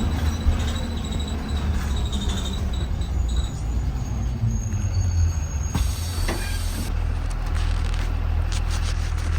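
2020 Blue Bird Vision school bus driving, heard from inside at the front: a steady low engine and road rumble with faint high whines, and a brief rush of noise about six seconds in.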